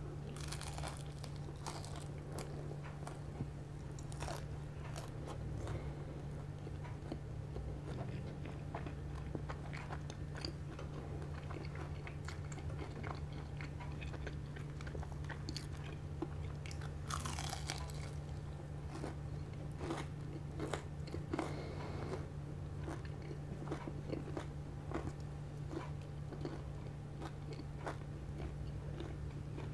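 Close-up chewing and crunching of crispy deep-fried pork knuckle, with scattered crisp cracks of the skin and one louder crunch about two-thirds of the way through. A steady low hum runs underneath.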